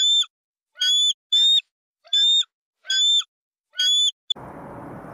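Eagle giving a string of short, high yelping calls, about one every two-thirds of a second. About four seconds in the calls stop and a steady hiss takes over.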